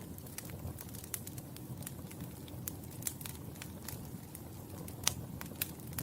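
Fire burning in a fireplace, crackling with irregular sharp pops over a steady low rumble of flames. The loudest pop comes about five seconds in.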